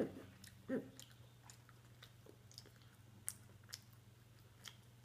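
Children chewing mouthfuls of soft pastry roll: faint wet mouth clicks and smacks scattered throughout, with a short vocal sound a little under a second in, over a faint steady low hum.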